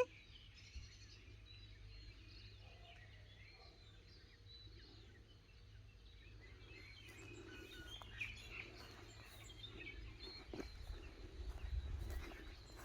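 Faint outdoor ambience of small birds chirping, with a low rumble of wind on the microphone that grows louder in the second half and a single sharp click about ten and a half seconds in.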